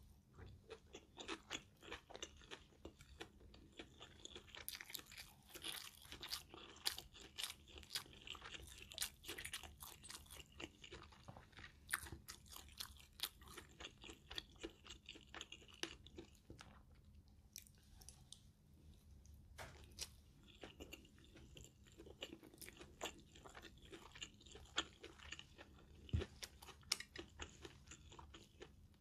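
Close-up mouth sounds of a person chewing stir-fried holy basil with minced pork and rice: many quick, crisp chewing clicks, with a short pause a little past halfway.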